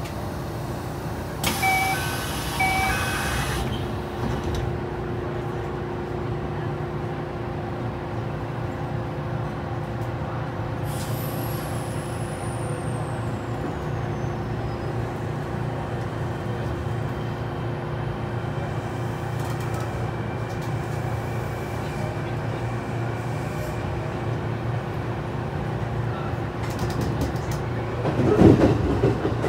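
Interior of a Kintetsu 9020 series electric train. A two-note chime sounds twice over a short hiss of air, then the car runs with a steady low rumble and motor hum. There is a louder clunk near the end.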